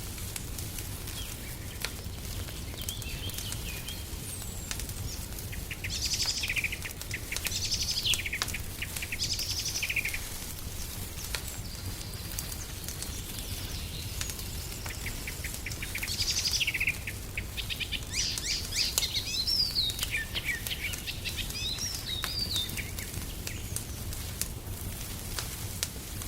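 Small birds chirping and singing in two spells, about six seconds in and again past the middle. Under them run the faint, scattered pops of a crackling wood fire and a steady low rumble.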